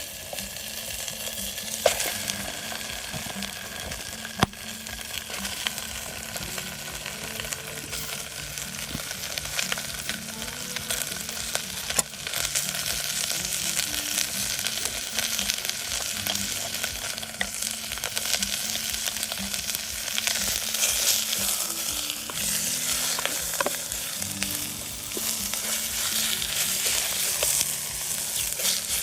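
Food sizzling and frying in a pan, being stirred, with many small crackles over a steady hiss. A soft music bed runs underneath.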